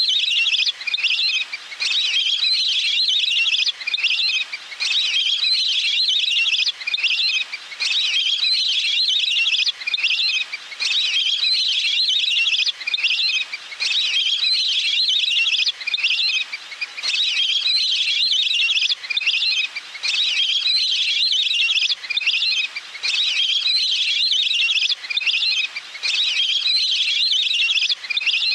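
Recorded call of a waterbird (Thai 'nok pet nam'), played over and over as a decoy call to draw birds in: a high, fast trilling phrase that repeats with short breaks every second or two.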